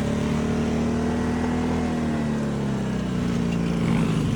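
Small lawnmower engine running steadily under load as the machine drives, its pitch wavering slightly.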